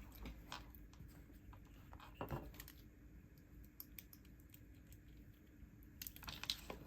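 Faint, scattered light clicks and taps of stationery being handled on a desk, with a quick run of clicks near the end.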